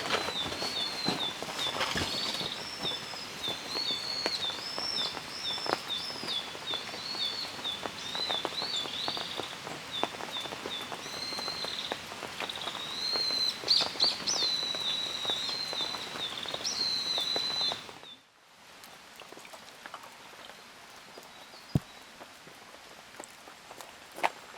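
Rain pattering and dripping while a bird sings a fast, continuous run of short high chirps. About three-quarters of the way through, the birdsong stops abruptly and only quieter, scattered drips remain.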